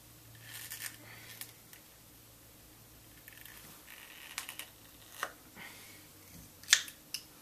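A tool scraping and clicking against a skateboard truck while prying at a stuck pivot cup to raise a lip on it, with soft scratchy stretches and a few sharp clicks, the loudest near the end.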